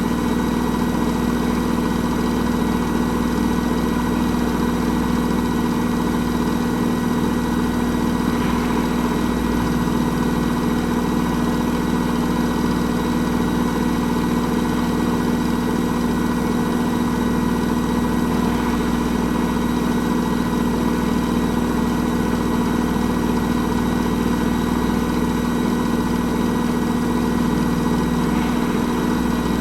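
Hoover H-Wash 300 Plus washing machine running at a steady drum speed, its motor giving a constant whine over a low hum, with a faint swell about every ten seconds.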